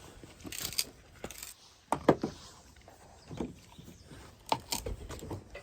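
A few scattered knocks and clatters of firewood logs being moved about by a retriever, the loudest pair about two seconds in.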